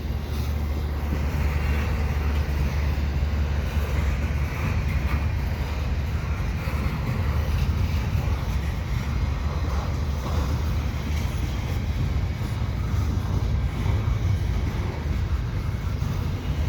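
Slow CN double-stack container train rolling past: a steady low rumble of wheels on rail with faint metallic clatter from the cars.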